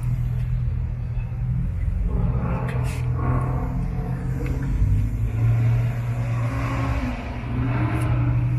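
A car engine running at idle: a steady low rumble that grows a little louder about five seconds in. Faint voices can be heard behind it.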